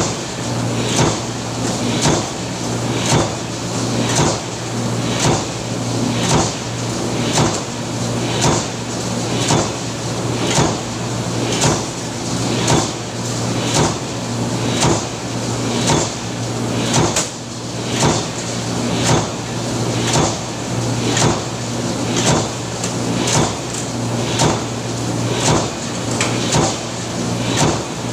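Press machine cycling steadily, one clacking stroke about every second, over a continuous motor hum.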